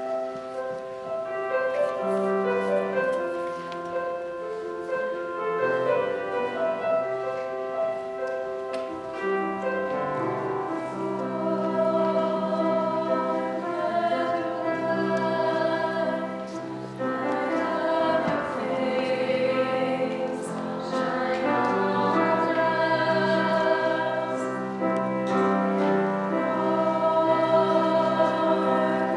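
A choir singing slow, sustained chords of several voices together.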